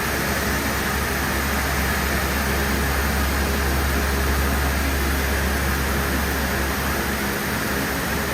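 Steady machinery noise: a constant low hum under an even hiss, unchanging throughout.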